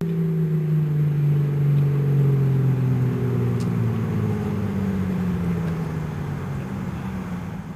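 Single-turbo Lexus SC300's inline-six engine running, its note falling slowly in pitch and fading.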